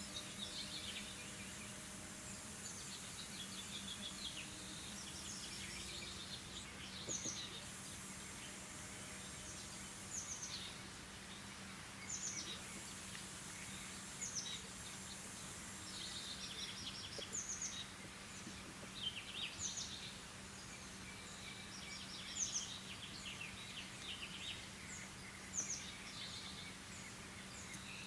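Songbirds singing and calling, a quick run of short chirps and sweeping notes repeated throughout, over a steady low hum.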